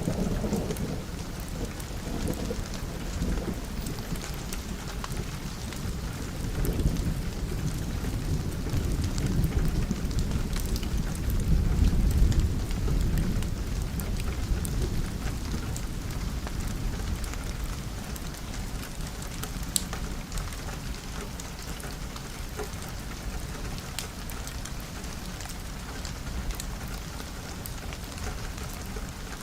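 Steady rain pattering on a window, with a long roll of thunder rumbling through the first half. The thunder is loudest about twelve seconds in and fades away, leaving the rain with a few sharp ticks.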